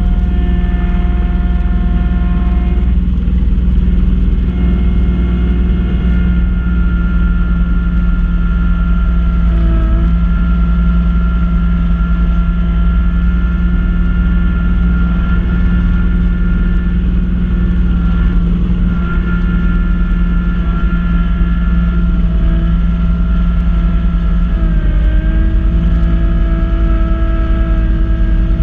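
Kubota B2650 tractor's three-cylinder diesel running steadily under load while driving a front-mounted B2782 snow blower. Several steady whining tones sit above the engine and shift in pitch briefly about 10 seconds and 25 seconds in.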